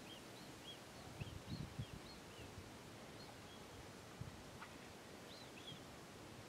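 Faint birdsong: a small bird repeating short, arched, high chirps, with a few soft low thumps about a second in and again about four seconds in.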